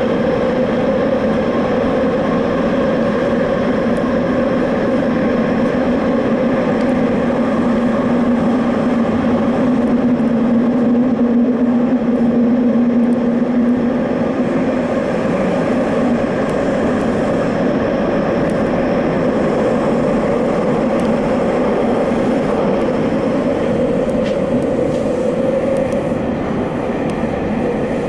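Subway train running at speed, heard from inside the rear cab: a steady rumble of wheels on rail with a humming motor tone that swells in the middle and eases a little after halfway.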